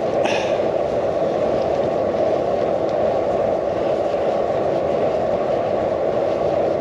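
Steady rumble of a bicycle rolling along, with tyre and wind noise picked up by a GoPro mounted on the handlebars.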